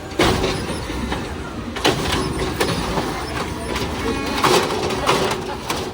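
Autocar ACX refuse truck engine being revved, surging sharply several times over a steady low rumble.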